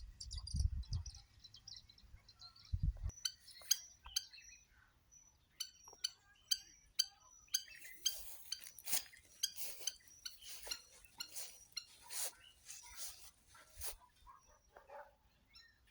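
Birds calling in the open with many short, high chirps and quick repeated notes, some of them sharp and clicky. A low rumble sits under the first few seconds.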